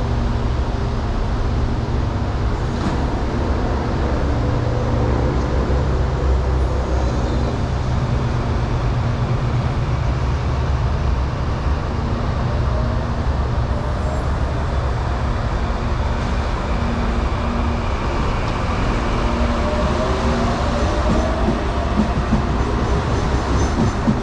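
Electric commuter train running, a steady heavy rumble with a faint rising whine twice, at about the middle and again near the end.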